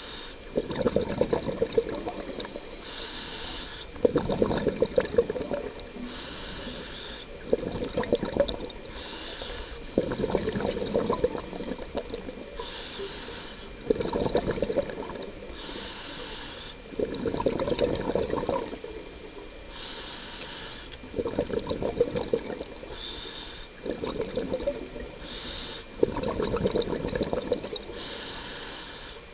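Scuba diver breathing through a regulator underwater: a short hissing inhale, then a longer bubbling exhale, repeating about every three seconds.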